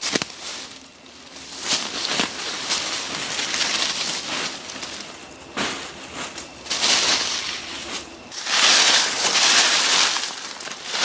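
Dry leaves and brushwood rustling and crackling as they are gathered and piled by hand, in several long swells with sharp twig snaps among them.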